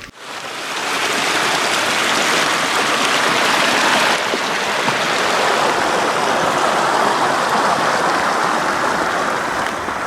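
Steady, loud rush of cascading water from a mountain stream or waterfall. It cuts in suddenly and swells over the first second.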